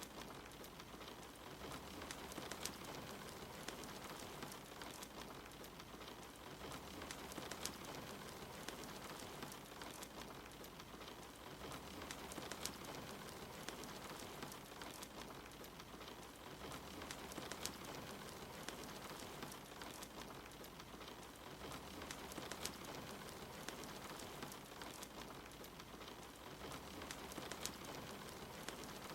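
Steady rain with a crackling wood fire: a constant hiss of rain, with scattered sharp pops and crackles from the fire.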